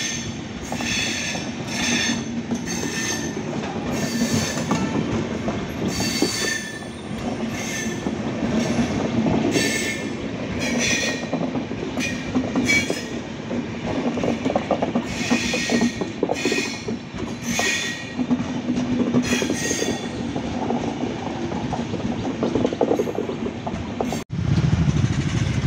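Indian Railways passenger coaches rolling past close by: a steady rumble of wheels on rail with short high squeals and clacks one or two times a second, thinning out after about twenty seconds. Near the end it cuts to a low hum of idling motorcycle engines.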